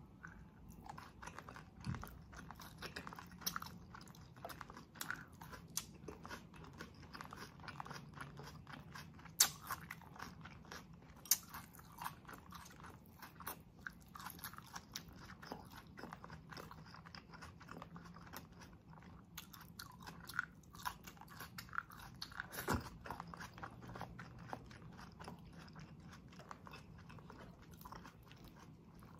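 Close-miked chewing of a mouthful of pork sisig with rice, raw onion and green chili: steady wet mouth clicks and crunching, with a few sharper, louder crunches along the way.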